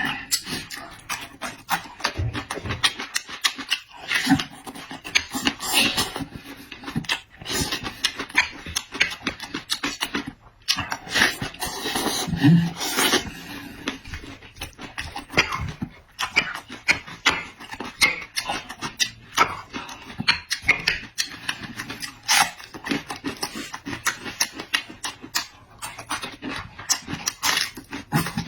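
Chewing and smacking sounds of eating, a dense irregular run of small wet clicks.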